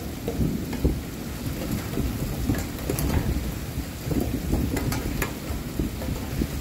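Heavy rain falling on a street, with a low churning rumble underneath and scattered sharp drops ticking close by.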